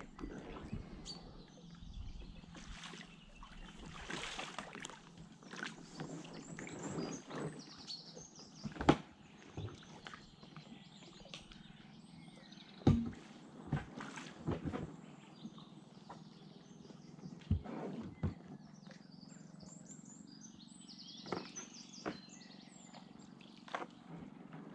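Kayak paddle strokes dipping and splashing in the water at an uneven pace, with two sharper knocks about nine and thirteen seconds in. Birds call now and then in the background.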